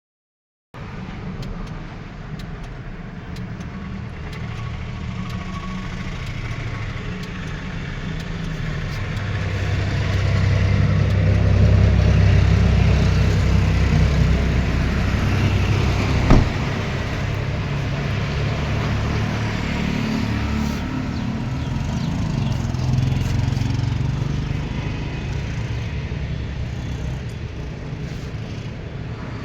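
Car engine running steadily, growing louder about ten seconds in and easing off again, with one sharp click about 16 seconds in.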